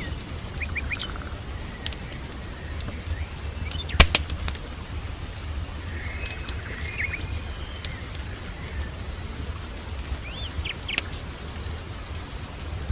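Wood fire crackling with scattered sharp pops, one loud pop about four seconds in, over a low steady rumble, while small birds chirp and whistle.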